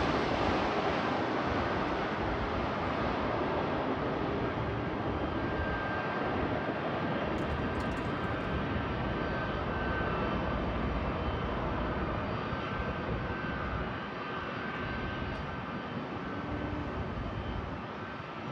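Jet engines of a Boeing 747 airliner, a broad steady rush with a faint high whine, slowly fading as the plane moves away.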